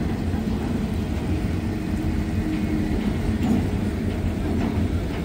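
Freight train rolling slowly past a grade crossing: a steady low rumble of the cars' wheels on the rails.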